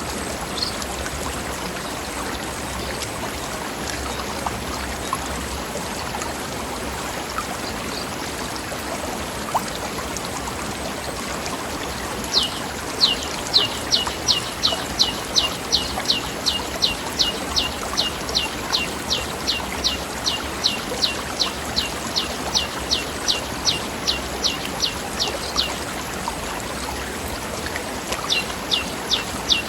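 Steady rush of a river flowing over rocks. In the middle a bird repeats a quick falling note, nearly three a second, for about thirteen seconds, and starts the same series again near the end.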